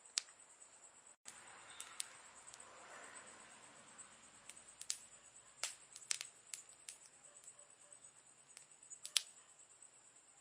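Campfire crackling: irregular sharp pops and snaps of burning wood over a soft hiss of flame, with a steady high-pitched whine underneath. The sound drops out for an instant about a second in.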